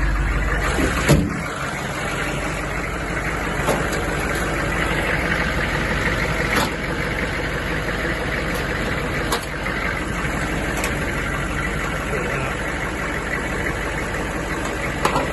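Chevrolet 6.5-litre turbo diesel engine idling steadily, with a few sharp clicks or knocks over it, the loudest about a second in.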